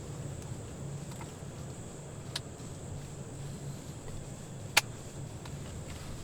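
Quiet outdoor ambience: a steady high-pitched insect drone over a low hum, with a fainter sharp click near the middle and a louder single click a little under five seconds in.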